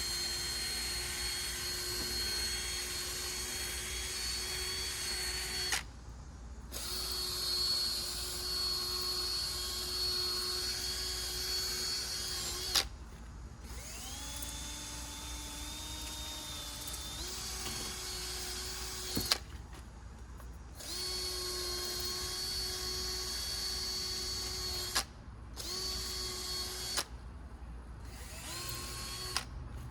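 Power drill spinning a fine-grit (1800) sanding disc against a plastic headlight lens. It runs in several long stretches with short stops between them, a steady whine that drops lower for a few seconds in the middle before picking back up.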